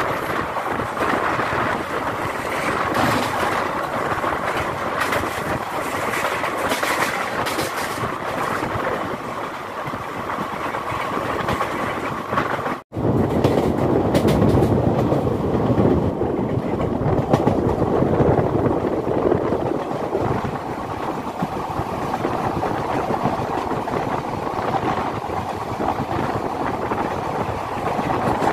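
Rushing rattle of a long express train passing close by on the adjacent track, heard from the open doorway of a moving passenger coach. After a sudden break about thirteen seconds in, the coach's own wheels run on the rails with a steady, lower rumble.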